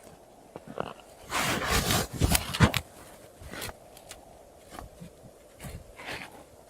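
Scraping and rustling handling noises, loudest in two stretches between about one and three seconds in, with a few sharp clicks later on.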